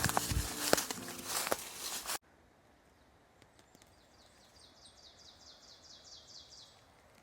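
A louder stretch with sharp clicks cuts off abruptly about two seconds in. Then, faint in quiet woodland, a songbird gives a rapid trill of high, falling chirps, about six a second, for roughly three seconds.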